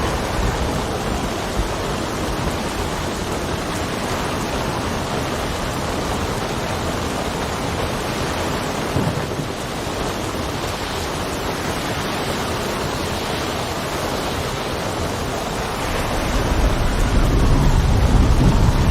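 Steady heavy rain with wind, and a low rumble of thunder swelling near the end.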